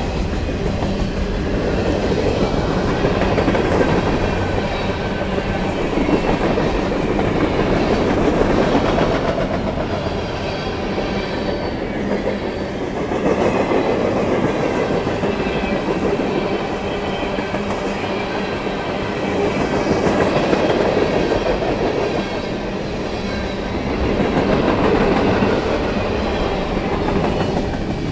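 Freight train cars (covered hoppers, tank cars and a flatcar) rolling past close by: the steady rumble of steel wheels on the rails, rising and falling every few seconds as the cars go by.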